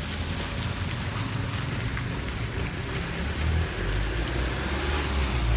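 Heavy rain falling steadily, with a low rumble that grows louder from just past the middle.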